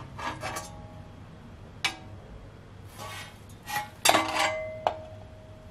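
Metallic clinks and clanks of an exhaust heat shield, its bolts and hand tools being handled while the shield is fitted. A handful of separate clinks, with the loudest cluster about four seconds in, one left ringing briefly.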